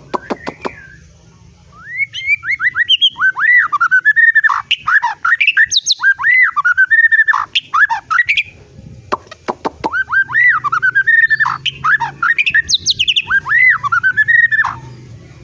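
Songbird singing two long bouts of rapid, arched whistled notes, with a pause of about a second between them; a few sharp clicks at the very start.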